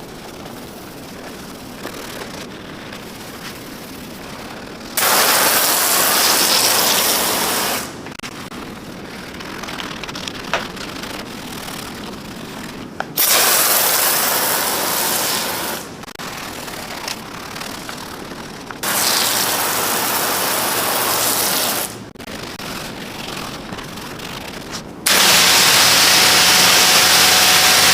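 Spray cleaning a car's engine bay, hissing in four bursts of about three seconds each, with a quieter steady rushing noise between the bursts.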